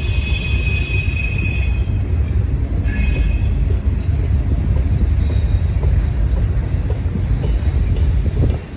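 Rail cars rolling past with a steady low rumble. High-pitched wheel squeal sounds for the first couple of seconds and again briefly about three seconds in. The rumble drops off sharply just before the end as the train clears.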